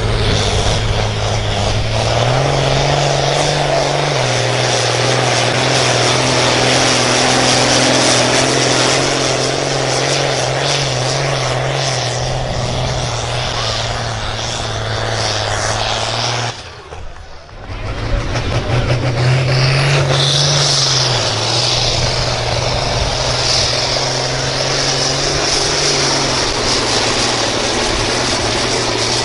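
Engine of a pulling vehicle running hard at high revs while dragging the sled. Its pitch steps up and back down twice, and the sound cuts out for about a second just past halfway.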